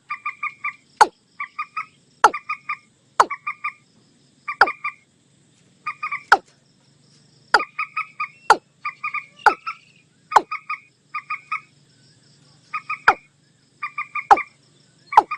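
Lure recording of watercock and common moorhen calls: sharp, very short calls that drop steeply in pitch, roughly one a second, alternating with quick runs of three or four short clucking notes.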